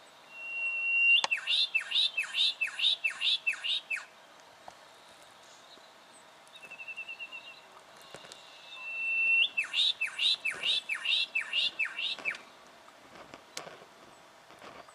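Juvenile brown goshawk calling in two bouts. Each bout is a held whistle followed by about seven sharp, falling notes, and the second bout comes about halfway through. A faint, quick chatter sounds between the bouts.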